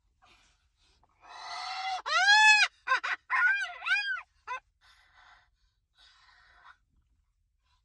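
Moluccan cockatoo calling: a raspy screech about a second in, then one loud long call that rises and falls in pitch, followed by a quick run of shorter arched calls.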